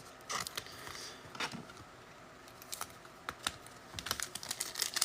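Trading cards being handled and set down: scattered light clicks and taps at irregular intervals.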